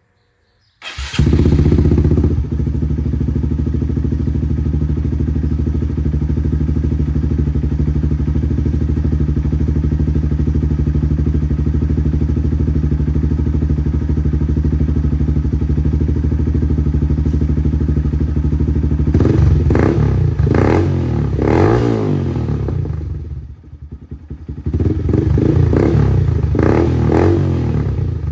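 2018 Honda Grom's 125 cc single-cylinder engine, breathing through a newly fitted Zoom high-mount full exhaust, starts about a second in with a short rise in revs and then idles steadily. Near the end it is revved in two spells of throttle blips, with a short drop back between them. Its exhaust note is deep and throaty.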